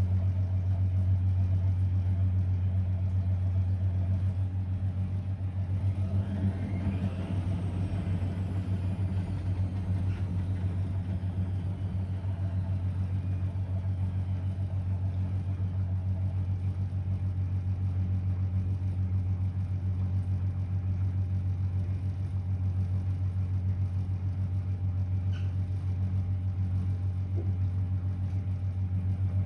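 Blomberg WA391 washing machine running mid-way through a 90 °C boil-wash programme: a steady low hum. A faint whine rises and then falls about six to ten seconds in.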